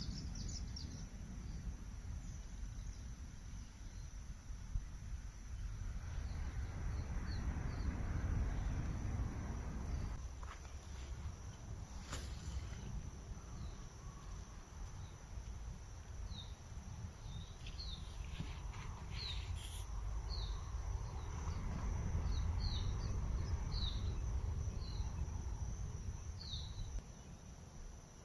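Natural ambience: a steady high insect trill, like crickets, with scattered short high bird chirps, most of them in the second half, over a low rumble.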